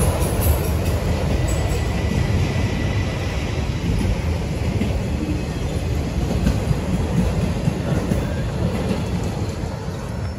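Freight train of autorack cars rolling past: a steady rumble of steel wheels on rail with faint clicks. It grows a little quieter near the end as the cars draw away.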